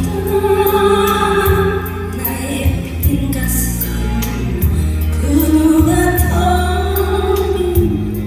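A song with a voice singing long held notes over a backing track with a steady bass and an even drum beat.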